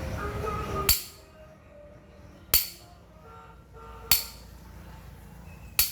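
Hammer striking metal four times, evenly about a second and a half apart, each blow sharp and ringing, as when driving a bearing or seal into place on a water pump. A steady low noise stops at the first blow.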